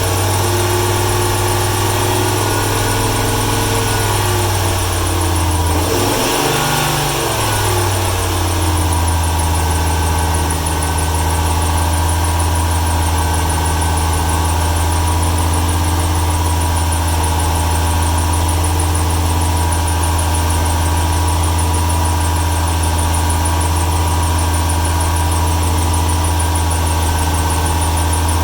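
Ford 300 cubic-inch (4.9 L) inline-six running with a misfire, which the owner suspects is a fuel or timing issue. Its pitch rises in the first few seconds, changes briefly around six seconds in, then holds steady, with a squeal over it typical of a slipping accessory belt.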